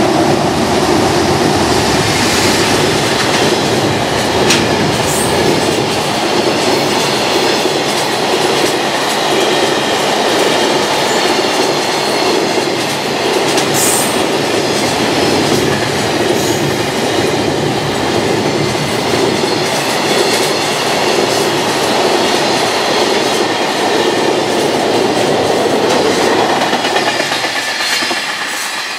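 Freight train of container wagons running past close by, its wheels clattering steadily over the rail joints. The noise eases off shortly before the end as the last wagons go by.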